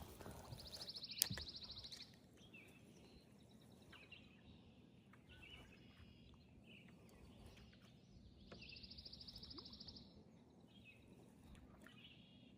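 Faint outdoor birdsong: a songbird sings a rapid, even, high trill about a second and a half long, twice, with scattered short chirps of other birds between. A sharp click about a second in.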